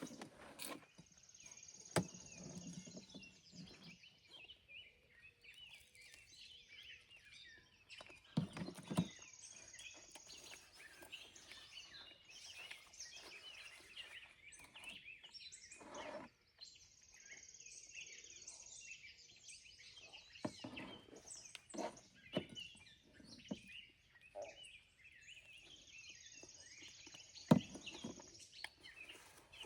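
Birds chirping in a quiet outdoor ambience, with a high buzzy trill of two or three seconds repeating about every eight seconds. A few sharp knocks and clatters break in, the loudest near the end.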